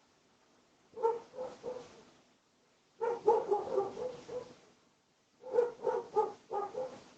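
Dog barking in three bouts of quick, repeated barks separated by short pauses.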